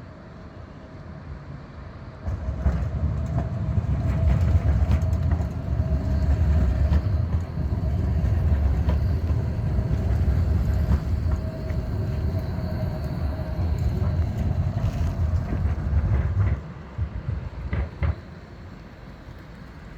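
Škoda 52T tram running on rails: a heavy low rumble that starts about two seconds in and drops away suddenly after about fourteen seconds, over a steady whine, with a few sharp knocks near the end.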